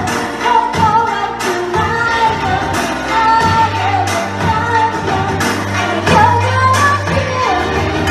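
Japanese pop song with a woman's singing voice over a steady drum beat and bass.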